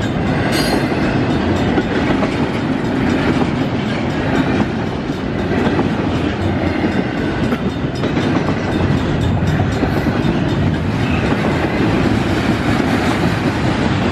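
Double-stack container freight train's well cars rolling past: a steady, loud rumble and clatter of steel wheels on the rails.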